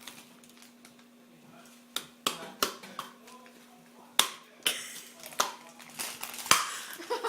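Kitchen handling sounds: a series of sharp knocks and taps of dishes and utensils on a bowl and counter, starting about two seconds in. A few of them are followed by a short hiss. A faint steady hum lies underneath.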